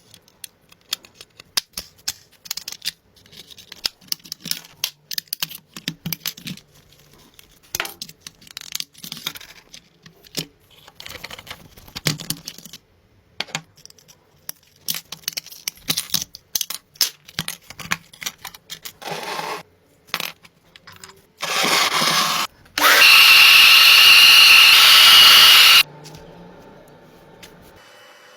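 Workshop tool noise: a long run of scattered clanks and knocks, then short bursts of a power tool, the loudest a steady run of about three seconds with a high whine that cuts off suddenly.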